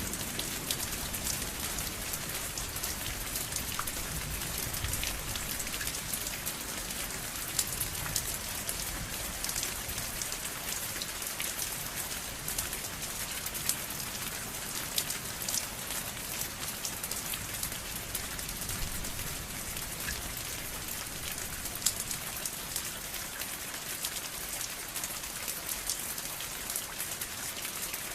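Steady rain falling on a surface, an even hiss with many individual drops pattering through it.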